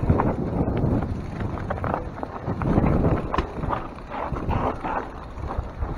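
Mountain bike descending a steep, rocky trail: wind buffeting the microphone over an irregular clatter of knocks as the bike jolts over rocks.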